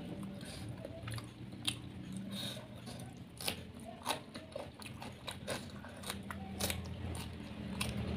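Close-miked chewing of sauced fried chicken, with irregular sharp crunches and bites.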